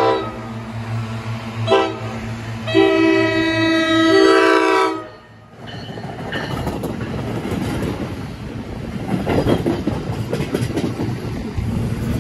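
NJ Transit commuter train (Multilevel cab car with an ALP-46A electric locomotive) sounding its multi-note horn: a blast cutting off at the start, a short toot about two seconds in, and a long blast that shifts in pitch near its end. From about five and a half seconds in, the train rolls past with rumbling and wheels clattering over rail joints.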